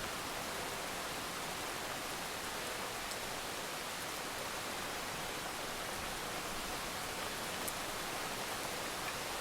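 Heavy rain falling in a steady, even hiss, with a few faint drop ticks and no thunder.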